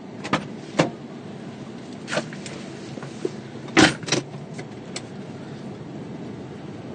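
Several sharp knocks and clicks, loudest a little under four seconds in, over a steady low rumble.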